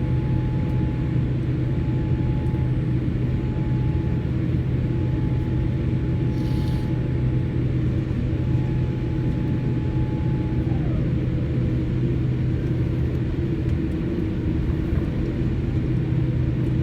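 Steady rumble and hum of a jet airliner heard from inside the passenger cabin before takeoff, with a thin whine that drops away in pitch about eleven seconds in and a brief hiss near the middle.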